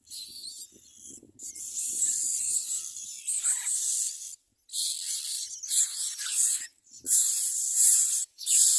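Common myna nestlings begging for food with harsh, rasping calls, in repeated stretches broken by a few short gaps.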